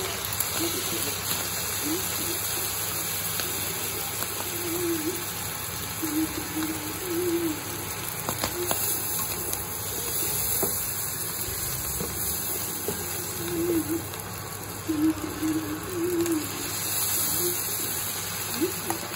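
Egg frying in hot oil in a nonstick pan: a steady sizzle, with a few light clicks as the plastic spatula stirs and scrapes.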